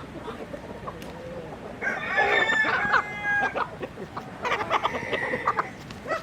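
Chickens: a rooster crows about two seconds in, a second long call follows about two seconds later, and there is clucking around them.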